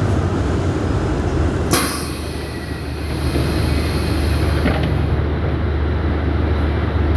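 Scania city bus's diesel engine running with a steady low rumble, with a sharp click a little under two seconds in.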